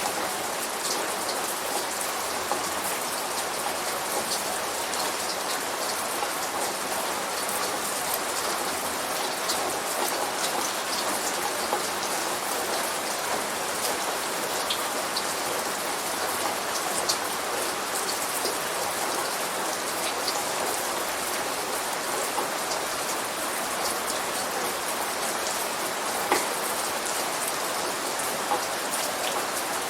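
Steady light rain falling on a surface, a continuous patter with individual drops ticking sharply now and then.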